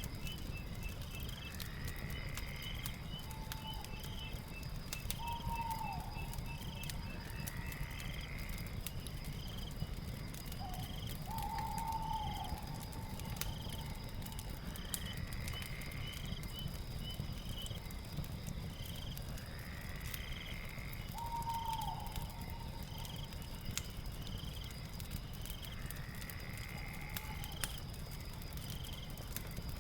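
Night ambience with a crackling fire: scattered sharp crackles over a low rumble, a steady high insect-like trill, quick repeating chirps, and two kinds of animal calls, one higher and one lower, each returning every few seconds.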